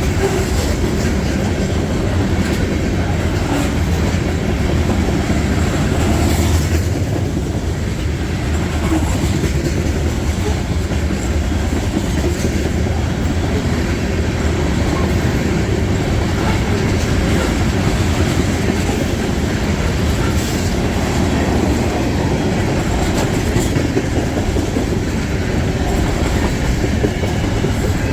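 Freight train rolling past close by, its cars' wheels clacking steadily over the rail joints with a constant low rumble.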